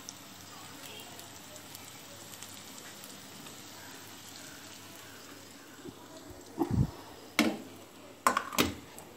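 Potato slices frying in oil in a pan with a faint, steady sizzle. Near the end, four loud knocks and clanks of cookware and a steel plate as the slices are handled.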